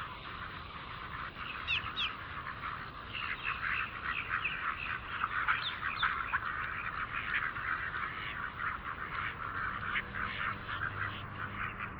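A flock of domestic ducks quacking and chattering, many short calls overlapping without a break, with a couple of brief rising notes from another bird about two seconds in.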